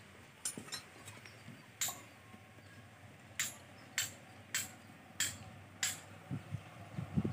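Sharp metallic clinks, a few scattered at first, then a run of five about every 0.6 s, with a few low thuds near the end.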